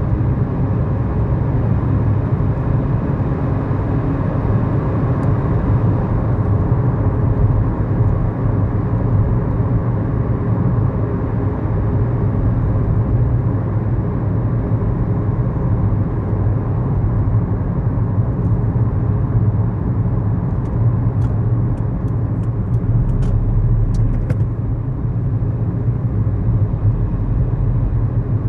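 Cabin sound of a 2011 Kia New Morning on the move: its 999 cc four-cylinder SOHC engine and road noise give a steady low hum. A short run of faint light ticks comes about twenty seconds in.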